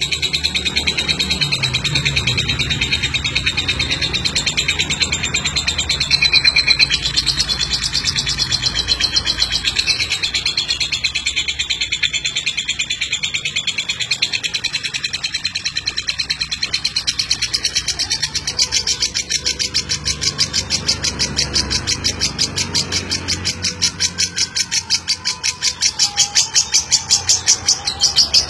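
Lovebird chattering in a long, unbroken trill of rapid shrill notes (the 'ngeklek' song), growing louder near the end.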